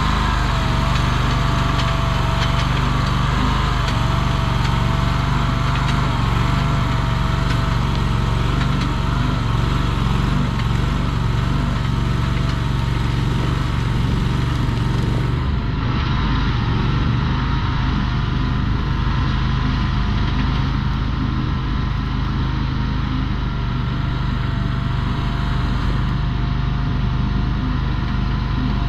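Chinese mini skid steer's engine running steadily under work, with a strong low hum and a high whine that wavers slightly in pitch; the sound turns duller about halfway through.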